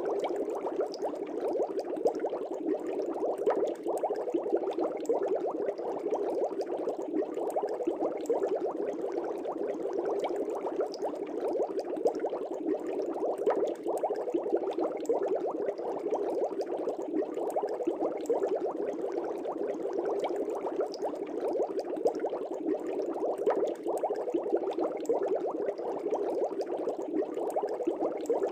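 Aquarium air bubbles rising and bursting at the water surface in a fish tank: a dense, steady burble of small pops and splashes that does not change.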